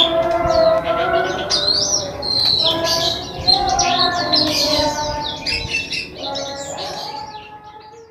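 Small songbirds chirping and twittering in quick, high, overlapping notes. The chirping fades out near the end.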